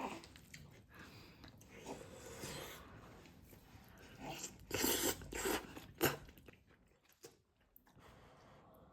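A person eating close to the microphone: chewing and crunching, loudest in a cluster of short bursts between about four and six seconds in.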